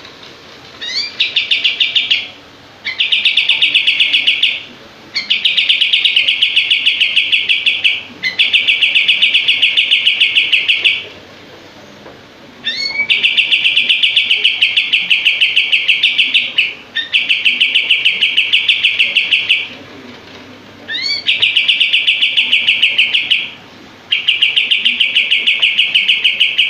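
Kapas tembak singing its rapid-fire song: about eight bursts of fast, evenly repeated notes, each lasting one to three seconds with short pauses between, some opening with a quick rising note.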